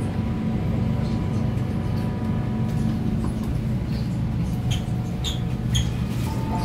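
Steady low hum inside an MTR K-Train carriage standing at a station platform, with faint steady whining tones and a few short high clicks about five seconds in.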